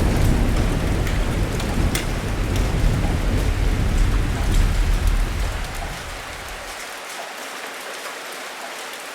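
Heavy rain falling steadily with scattered sharp drips, under a deep rumble of thunder that dies away about six seconds in, leaving only the rain.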